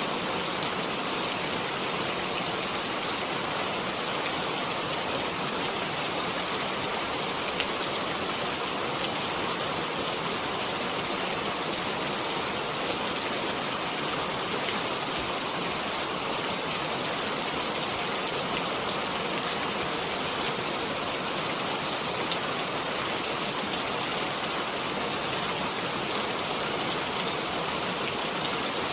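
Steady rainfall, an even hiss of many drops with faint ticks of individual drops landing.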